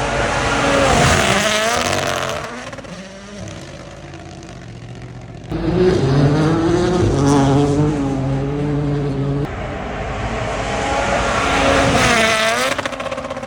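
Rally cars at full throttle passing one after another on a stage, engines revving high through gear changes, the pitch dropping as each goes by. There are three passes, with abrupt jumps from one car to the next.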